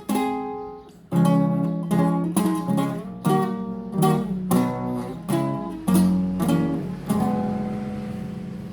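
Classical guitar played solo: plucked notes and chords about every half second, with a short slide between notes near the start, then a final chord left to ring and fade out from about 7 s in.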